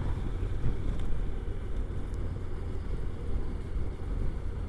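Honda NC750X motorcycle riding along, its parallel-twin engine running under a steady, gusty wind rumble on the microphone.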